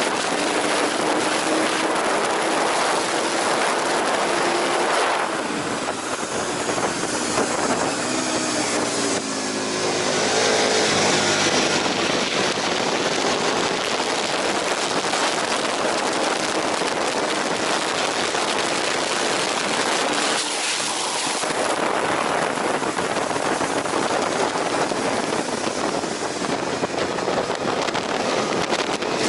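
Aprilia RSV 1000 Factory's V-twin engine running hard at speed on track, mixed with heavy wind rush. About a third of the way in the wind eases and the engine note comes through more clearly, changing pitch as it is throttled and shifted, then the rush builds again.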